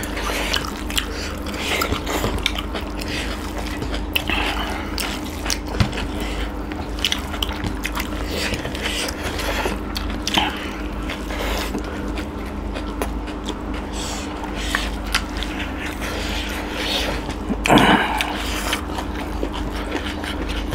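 Close-up chewing and crunching of raw vegetable singju salad eaten by hand, full of small wet mouth clicks, over a steady low hum. A short vocal sound comes about three-quarters of the way through.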